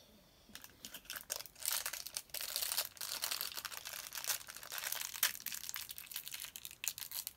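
Small plastic packaging being crinkled and torn open by hand to unwrap a toy accessory, a dense crackling that starts about half a second in.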